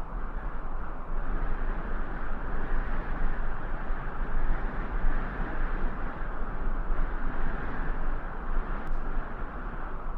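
Steady rushing noise with a heavy low rumble, without any clear tone or distinct events.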